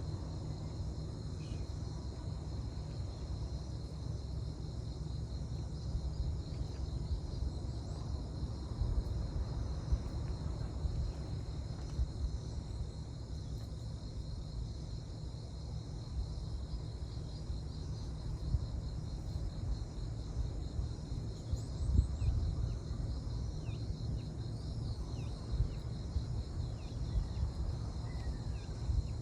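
Steady chirring of crickets and other insects in a continuous high band, over a steady low rumble.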